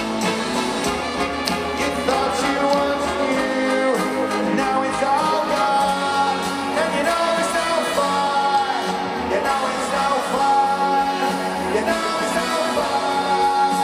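Live rock band playing, recorded from the crowd, with held, gliding melody lines over the band.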